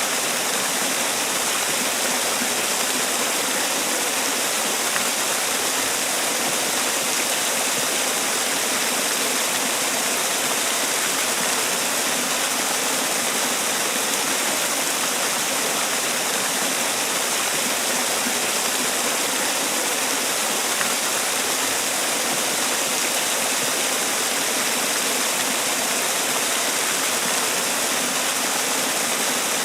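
Man-made waterfall: water pouring and splashing in a steady, unbroken rush with a hissy, bright edge.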